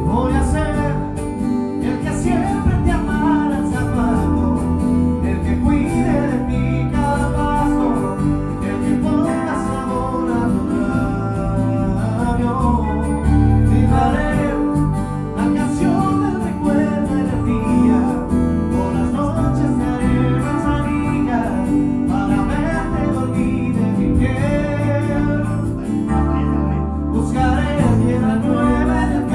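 A band playing a song through, with guitar and a sung melody over a steady bass and drum bed.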